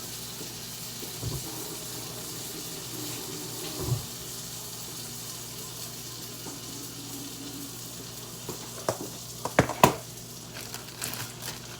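A tortilla frying in butter in a pan, with a steady, even sizzle. Two soft thumps come early on, and a few sharp knocks of kitchenware come near the end.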